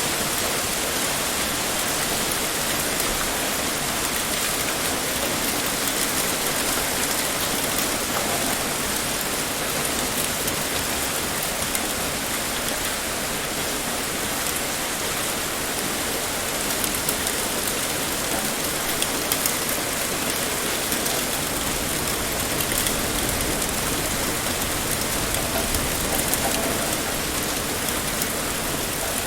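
Heavy rain pouring steadily, an even hiss of many drops striking a surface with faint individual ticks in it.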